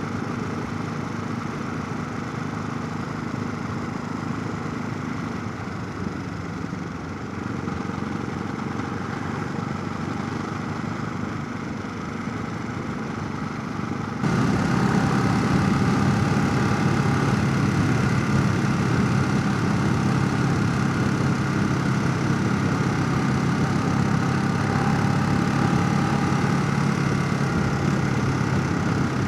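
Motorcycle engine running at a steady cruise with wind and road noise, heard from a helmet chin-mounted camera. About halfway through it gets suddenly louder and brighter, then holds steady.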